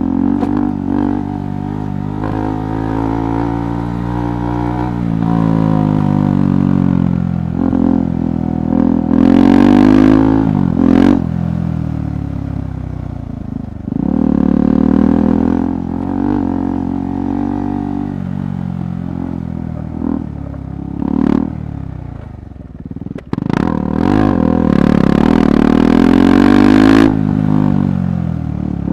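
KTM 390 Adventure's single-cylinder engine under a rider's throttle on an off-road trail, revs rising and falling over and over as the throttle opens and closes. Near the end the revs drop low with a sharp click, then pick up again.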